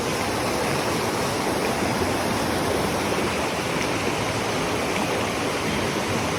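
Steady, even rush of flowing water from a stream by a waterfall.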